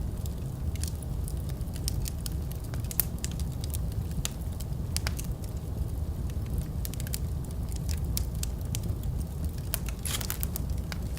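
Wood fire burning in a fireplace: a steady low rumble with irregular sharp crackles and pops, a quick cluster of pops near the end.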